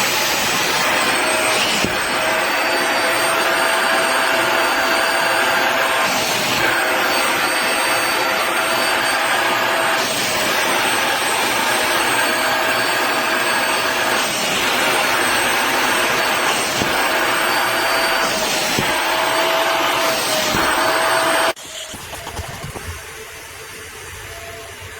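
Upholstery wet vacuum running with a steady motor whine, its pitch dipping briefly every couple of seconds. It cuts off suddenly near the end, leaving a much quieter steady hum.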